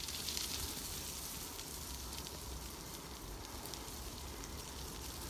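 Bicycle tyres rolling over a loose surface: a steady crackling hiss full of fine ticks, with a low rumble underneath.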